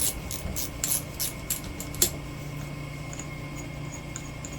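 Rhythmic rasping or scraping strokes of a hand tool on metal, about three a second, ending in a sharp click about two seconds in; after that only a low steady hum and a few faint ticks.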